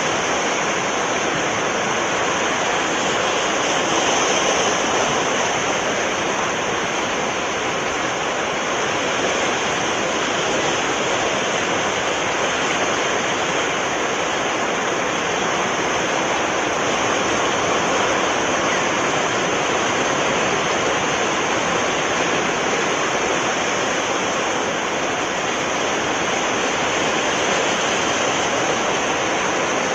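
Sea surf washing in steadily, an even rush of water noise with no pauses between waves.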